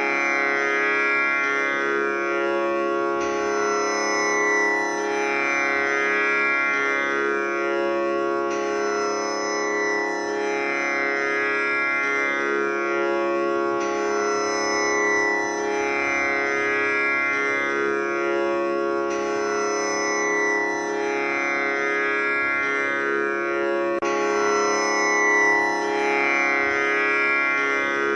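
Tanpura drone tuned to C#, its strings plucked over and over in a slow cycle that repeats about every five seconds, with a rich buzzing shimmer of overtones that never stops.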